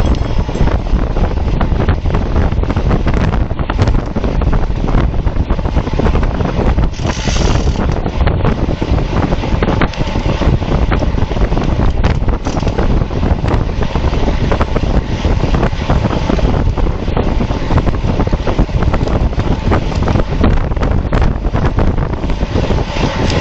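Steady heavy wind rushing over the microphone of a road bike moving at race speed, with a constant low rumble.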